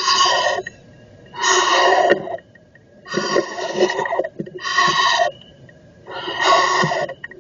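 Screech owl nestlings giving raspy, hissing begging calls, five in a row at about one every second and a half, each lasting up to a second.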